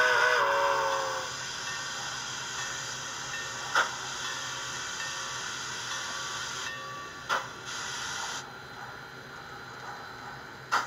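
Tsunami2 DCC steam sound decoder in an N scale Southern Pacific MT-1 4-8-2 model, played through its tiny speaker. A chime steam whistle fades out about a second in. Then comes a steady steam hiss with a short sharp chuff about every three and a half seconds as the locomotive crawls at speed step 1.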